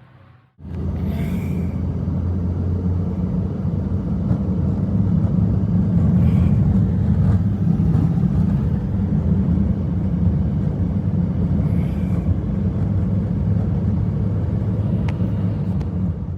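Strong blizzard wind blowing hard, a steady low rumble that cuts in about half a second in and stops abruptly at the end.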